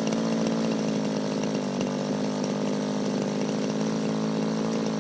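Small petrol two-stroke engine of a Raptor 50 radio-controlled helicopter running steadily at an even pitch.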